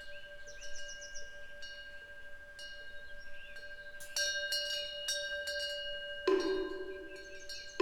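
Temple wind bell (pungyeong) ringing on, its clapper striking again and again with light metallic clinks. A bird gives a short trill about half a second in. Near the end a moktak (wooden fish) is struck once, the loudest sound.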